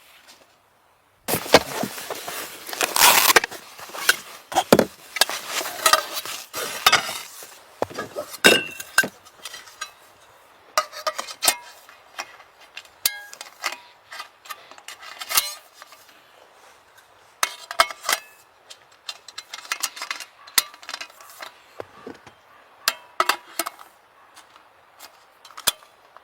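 Irregular clinking, clattering and knocking of hard objects being handled, some strikes ringing briefly, like metal gear or cookware. The sound starts about a second in and is busiest in the first few seconds.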